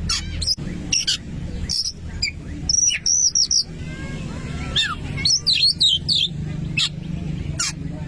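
Oriental magpie-robin (kacer) singing: phrases of sharp whistled notes and chirps with quick rising and falling glides, over a steady low hum.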